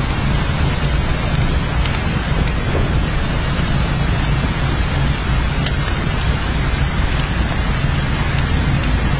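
Steady rain falling, with a constant low rumble underneath and scattered sharper drop ticks.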